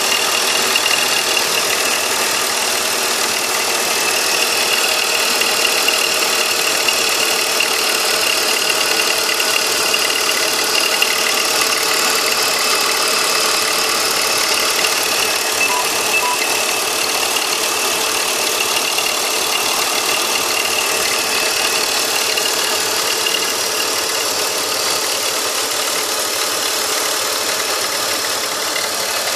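BMW M54B25 2.5-litre straight-six engine in a 2004 X3 E83 idling steadily, about a minute after a near-cold start.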